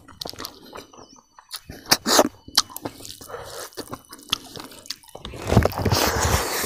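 Close-up mouth sounds of a person chewing spicy, crispy fried grasshoppers with rice: wet smacks, clicks and crunches, with a louder, longer noisy stretch about five seconds in.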